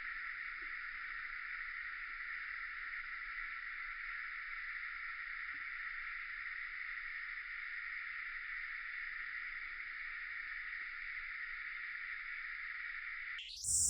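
Steady, unbroken high-pitched drone of a cicada chorus in midsummer. Near the end it sweeps upward into a loud hiss.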